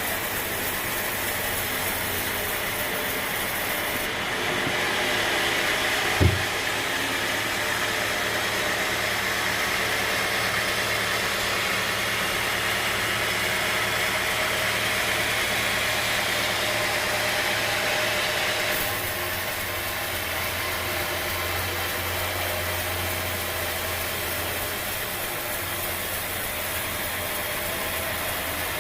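Engine-driven sawmill machinery running steadily, with one sharp knock about six seconds in; the sound changes abruptly twice, as between different shots.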